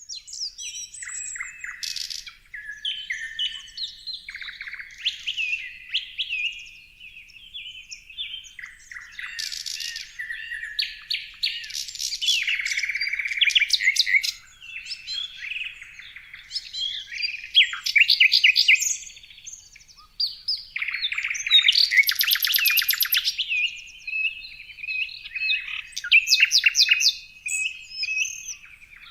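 Several songbirds singing and chirping at once, a dense, overlapping mix of whistled notes, pitch glides and fast trills of rapidly repeated notes.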